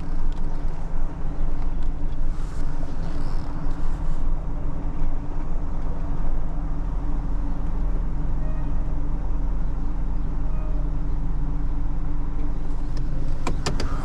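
Tow truck's engine running steadily at low speed while it maneuvers over gravel, with a few sharp clicks near the end.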